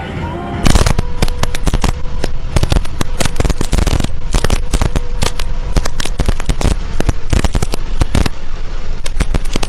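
A rapid, irregular string of loud sharp cracks and bangs, starting suddenly about half a second in and keeping up without a break.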